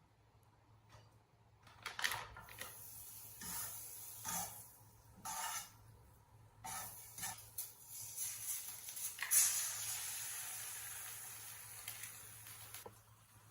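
Kitchen handling noises: a few short scrapes and rustles. Then, about nine seconds in, a steady hiss of food sizzling in a hot pan starts loud, slowly fades and cuts off near the end.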